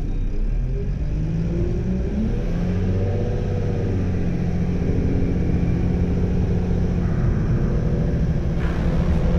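Diesel engine of a 2010 Mack LEU front-loader garbage truck accelerating, heard from inside the cab: its pitch climbs over the first few seconds, then holds steady under load.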